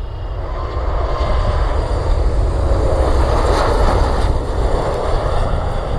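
Boeing 737 MAX 9 airliner passing close on arrival, the jet noise of its CFM LEAP-1B engines swelling to a peak about three to four seconds in, then easing off.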